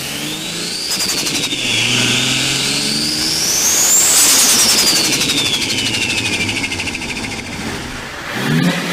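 Turbocharged car engine being revved, the turbo whistle rising in pitch twice and falling away each time, most sharply after about four seconds. Each lift-off brings a rapid fluttering chatter, the turbo's compressor surge flutter, which lasts about three seconds the second time. Another rev starts near the end.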